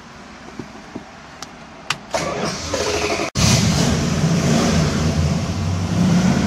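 A 1969.5 Dodge Super Bee A12's 440 Six Pack V8 being started. A few light clicks, then the starter cranks about two seconds in. About a second later the engine catches and runs loud and steady.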